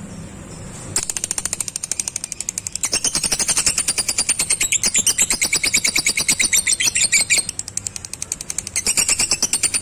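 Lovebird giving its long 'ngekek' chatter: a fast, even trill of sharp high chirps, about nine a second, starting about a second in and running on with a brief dip in loudness near the end.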